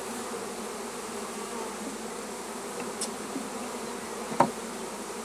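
Honeybees from a newly hived swarm buzzing around the open hive box, a steady hum. A single sharp click cuts through about four seconds in.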